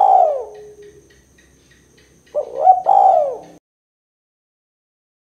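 Spotted dove (tekukur) cooing: one phrase ends about a second in, and another two-part coo phrase follows about two and a half seconds in, with a pause after it.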